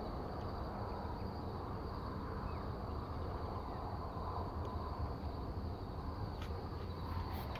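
Outdoor ambience: insects trilling steadily at a high pitch over a low rumble, with a few faint clicks.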